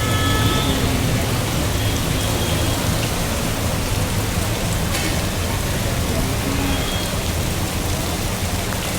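Heavy monsoon rain pouring down as a steady, dense hiss over a low rumble.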